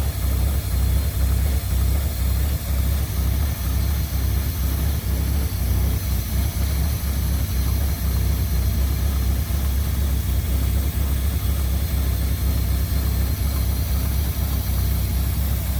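1963 Mercury engine idling steadily on a freshly rebuilt Motorcraft 2100 two-barrel carburetor, with an even low pulsing exhaust note. The owner suspects an exhaust leak.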